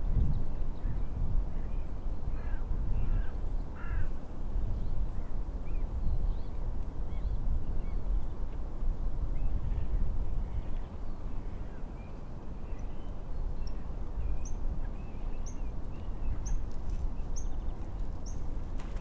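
Steady wind and wave noise on the lakeshore with birds calling over it: a few harsh calls a few seconds in, and a run of short high chirps about once a second near the end.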